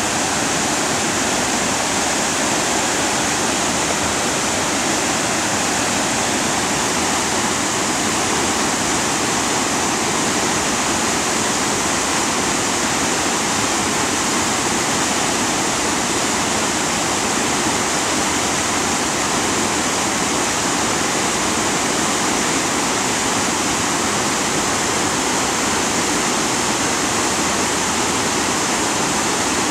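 Lucia Falls, a 17-foot waterfall, pouring with a steady, unbroken rush of white water.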